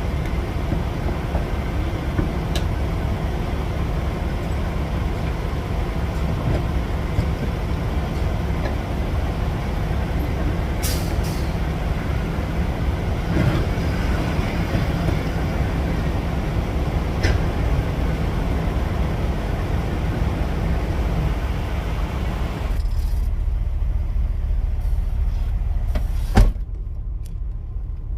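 Semi-truck driving, heard from inside the cab: a steady low rumble of engine and road noise with a few faint clicks. Late on, the higher hiss drops away, and a single sharp thump comes about two seconds before the end.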